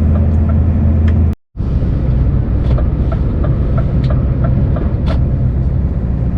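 Scania S650 V8 truck engine running steadily with a low, even rumble. After a brief cut about a second and a half in, the rumble goes on with a regular light ticking about three times a second.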